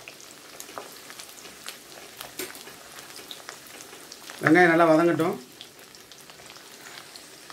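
Garlic frying in hot oil in an aluminium kadai, a steady sizzle with many small crackles as a wooden spoon stirs it. A brief voice, about a second long, sounds about halfway through.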